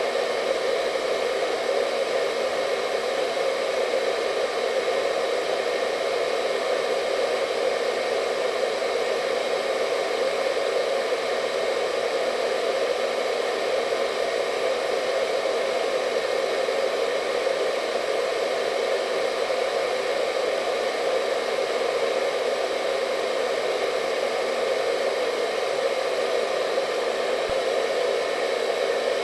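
Hair dryer running steadily: an unchanging rush of blown air, fullest in the lower middle range, with a faint high whine held on top.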